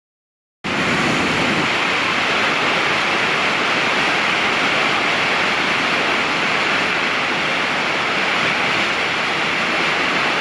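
Rushing water, a loud steady rush with no rhythm, starting abruptly about half a second in.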